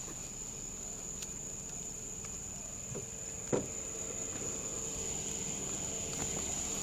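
Steady high-pitched insect trill, one unbroken tone, with a few faint clicks and a single sharp knock about three and a half seconds in.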